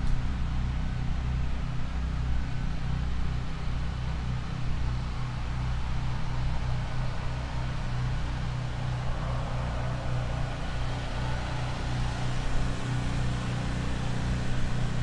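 Steady low rumble of wind buffeting the microphone and tyre noise from a moving electric unicycle, with no engine note.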